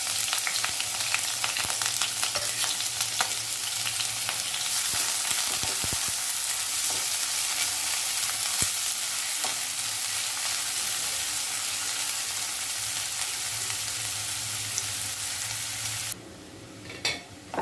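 Chopped onion sizzling as it fries in hot oil in a kadai, with many small scrapes and taps of a spatula stirring it. The sizzle cuts off suddenly about a second and a half before the end, leaving a few clicks.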